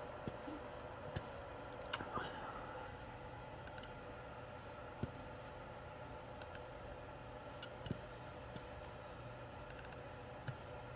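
Scattered computer mouse clicks and a few keyboard taps, one every second or so, over a steady low hum.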